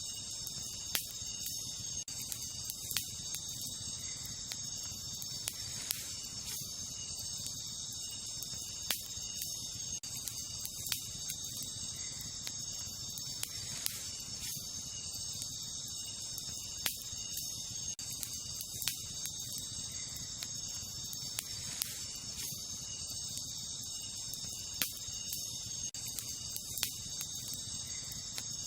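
Wood campfire crackling, with sharp pops every second or two over a low, steady rush. Behind it is a continuous, even chorus of night insects such as crickets.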